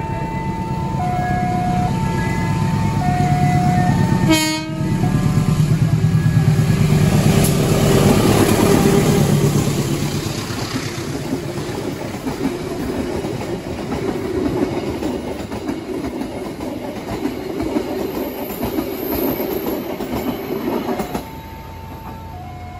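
A level-crossing warning alarm sounds two electronic tones in alternation, about one a second. Then a passenger train's coaches pass close by with loud wheel rumble and clatter on the rails, over the alarm. The rumble drops off suddenly near the end, and the alternating alarm tones are heard again.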